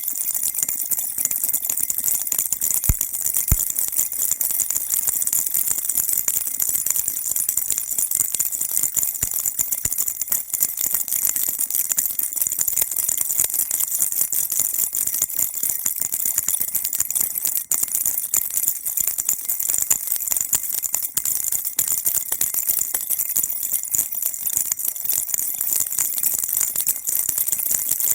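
Baby rattle shaken continuously: a steady, dense, high-pitched jingling rattle that doesn't let up, with a couple of soft knocks about three seconds in.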